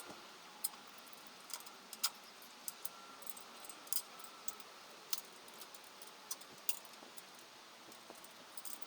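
About a dozen light, sharp metallic clicks and clinks at irregular intervals, like small metal tools or parts being handled.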